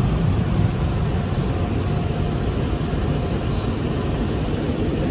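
Automatic car wash air dryers blowing steadily over the car, heard from inside the cabin, driving the last rinse water off the glass.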